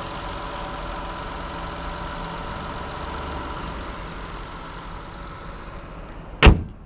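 Toyota 1JZ-GTE 2.5-litre twin-turbo inline-six idling steadily under the open bonnet. About six and a half seconds in, the bonnet is shut with a single loud bang, and the engine sound drops away.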